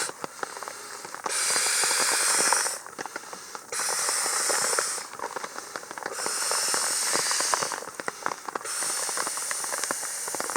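Nylon sleeping bag and sleeping pad rustling as a person tosses and turns on them: about four bursts of hissing swish, each over a second long, with small crinkling clicks in between.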